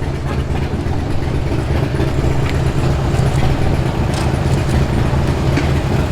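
Car engine running at low speed as the car creeps along, a steady low rumble.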